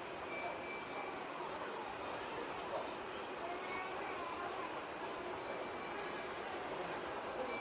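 Steady, unbroken high-pitched drone of insects.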